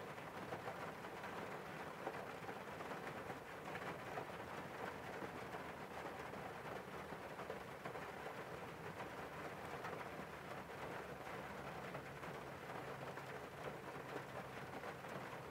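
Steady rain hitting a car's windows, heard from inside the car: an even hiss flecked with small drop taps.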